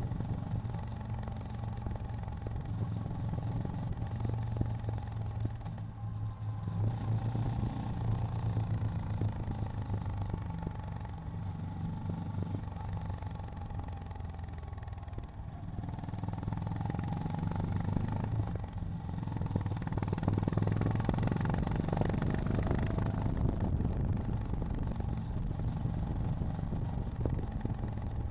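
Honda GB350's air-cooled single-cylinder engine running under way. Its low, even beat swells and eases several times as the bike accelerates and settles, with a light rush of road and wind noise over it.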